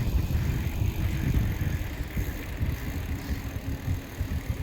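Strong gusty wind buffeting the microphone, a rough, fluctuating low rumble.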